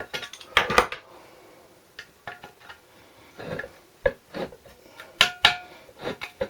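Metal hand tools clinking and clanking against a small Briggs & Stratton engine, in a dozen or so irregular sharp knocks, some with a short metallic ring, as a wrench is worked at a stuck muffler.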